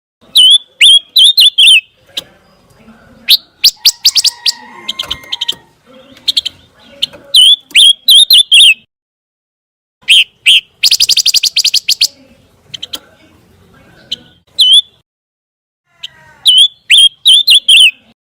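A pancawarna songbird calling loudly in groups of sharp, high chirps, some hooked down in pitch, and fast rattling trills, with short pauses between the groups.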